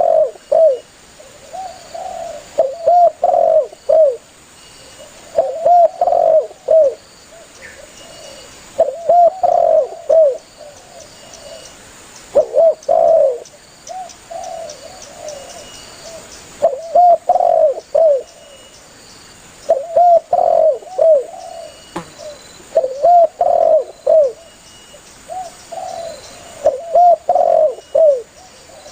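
Spotted dove (tekukur) cooing: phrases of low, curving coos repeated every three to four seconds, the call that draws other doves in.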